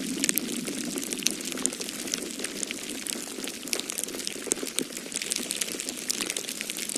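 Wood fire crackling in a fireplace, a dense run of irregular small pops and snaps, over a steady low rush of storm wind.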